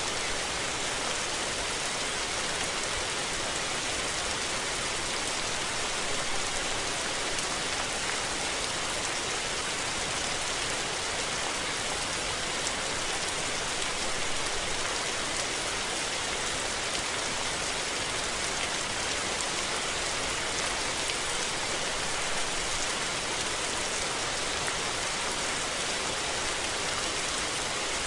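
Steady rain falling, a dense even hiss of drops on surfaces with no thunder.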